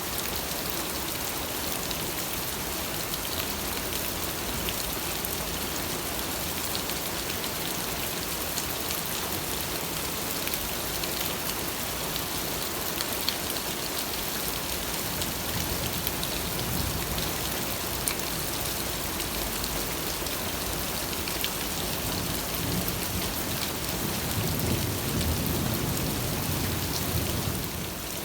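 Steady, heavy rain falling, with scattered louder drops ticking through the hiss. A low rumble swells underneath near the end.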